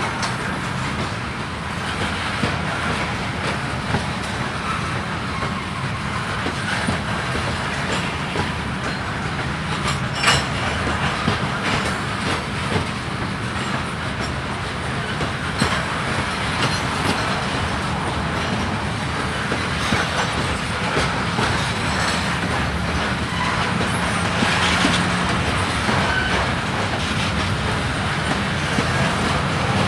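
Freight cars of a grain train rolling steadily past on the rails, the wheels clicking over rail joints, with one sharp click about ten seconds in.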